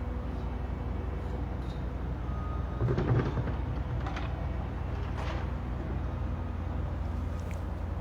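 Heavy engine running steadily with a low, even hum. A louder noisy burst comes about three seconds in, followed by two shorter hissing bursts a second or two later.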